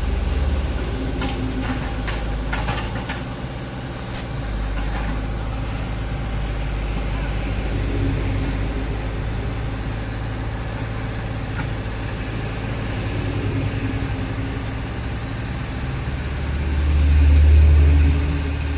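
Komatsu PC50UU-2 mini excavator's diesel engine running steadily, with a few knocks early on. The engine comes under heavier load and gets louder near the end.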